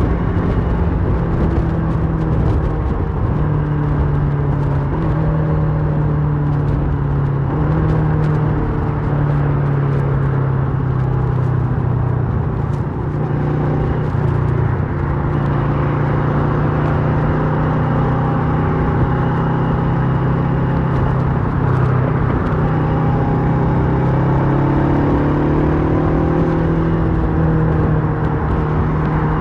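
2008 Kawasaki Versys 650's two-cylinder engine running through a MIVV slip-on exhaust while riding, at fairly steady revs with a few small rises and drops in pitch, over a steady rush of wind noise.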